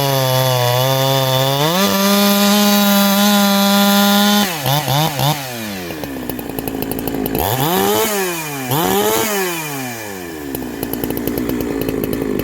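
Two-stroke chainsaw fitted with a shotgun-style pipe muffler, held at high revs with a deep growl. About four seconds in it drops off with a few quick throttle blips, then revs up twice and falls away, and settles to idle near the end.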